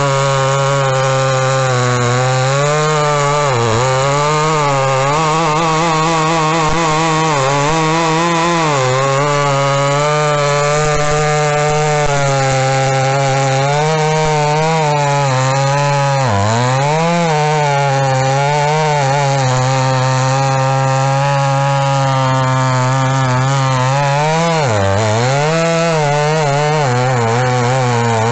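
Pinkway two-stroke gas chainsaw with a 24-inch bar running at high revs while cutting wood. Its pitch sags briefly as it loads up in the cut, about four seconds in, around sixteen seconds and near twenty-five seconds.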